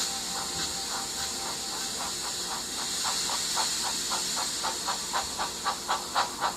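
Steam locomotive chuffing over a steady hiss of steam. The puffs come at about four a second and grow louder toward the end.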